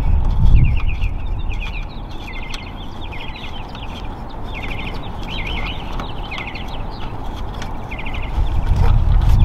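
Birds chirping in the background, in repeated short chattering bursts of quick high notes. A low rumble sits under them, loudest about half a second in and again near the end.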